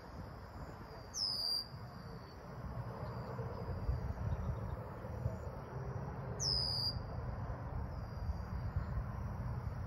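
A bird gives a short, high whistled call that falls in pitch, twice, about five seconds apart, over a low, steady rumble.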